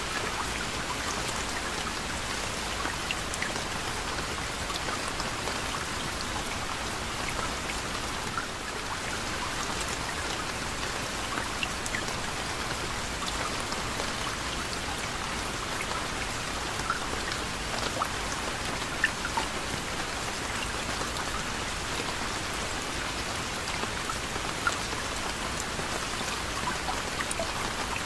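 Steady gentle rain falling, with individual drops ticking on a surface here and there.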